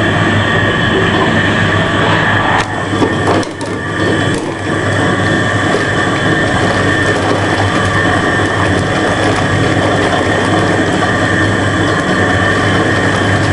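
Ural-4 washing machine running, a steady mechanical whirr and hum with a gear-like grinding, briefly faltering about three seconds in.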